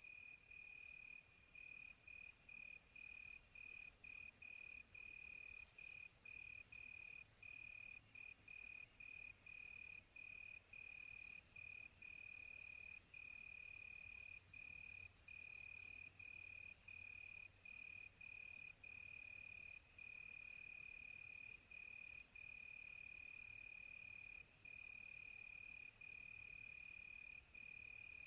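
Crickets chirping at night: one steady high trill broken by short gaps, over a fainter, higher pulsing insect chorus. From about twelve seconds in, a louder high insect hiss swells, then drops away about ten seconds later.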